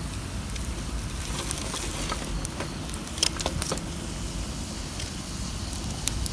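Wood campfire crackling, with scattered sharp pops that come in a cluster in the middle and once more near the end, over a steady low rumble.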